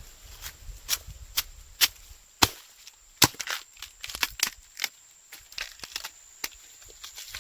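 A blade chopping at bamboo shoots: a series of sharp, irregular cutting strikes, some loud and some lighter, about two a second at first.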